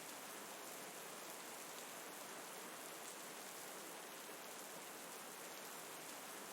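Steady, faint rain falling: an even, unbroken hiss with no distinct drops or crackles standing out.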